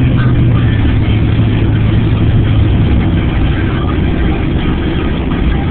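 Car engine and road noise while driving: a steady low engine hum that drops slightly in pitch about halfway through, over a constant rushing noise.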